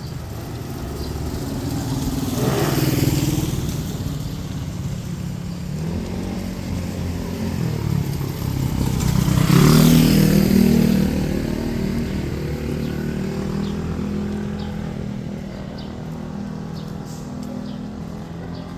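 Street traffic: two motor vehicles pass close by, the first about three seconds in and a louder one around ten seconds in, each swelling and fading, with engine noise carrying on afterwards.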